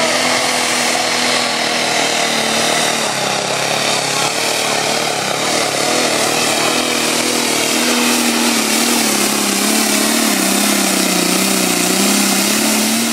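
Competition pulling tractor's engine at full throttle during a pull: a loud, steady drone whose pitch wavers slightly as it labours against the sledge.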